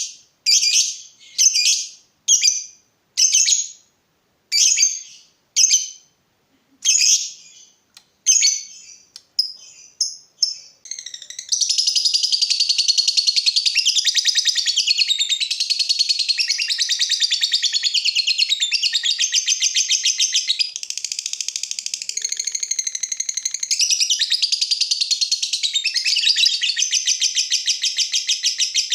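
Lovebird singing: a string of separate sharp, high chirps at uneven spacing, then it breaks into an unbroken, rapid chattering song that carries on to the end, briefly weaker about two-thirds of the way through.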